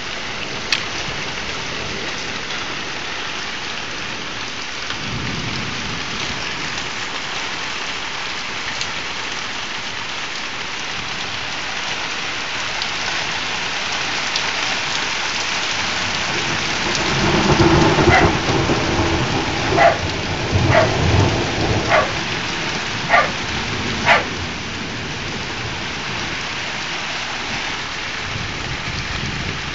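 Thunderstorm: steady heavy rain throughout. A low roll of thunder comes in about two thirds of the way through, with a handful of sharp clicks or taps.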